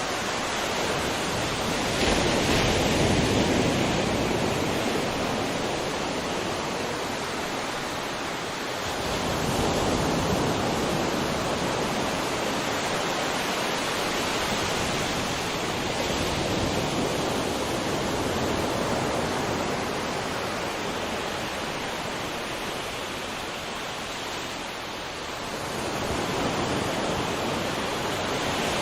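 Ocean surf: a steady rush of sea water with waves swelling up and washing in four times.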